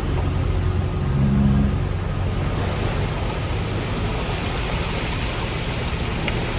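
Heavy diesel earthmoving machinery running steadily, with a brief rise in engine pitch and loudness about a second in.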